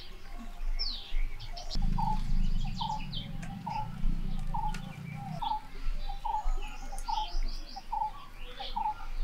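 Birds calling: a short note repeated about twice a second, with higher chirps and trills from other birds over it. A low drone joins about two seconds in and stops about three and a half seconds later.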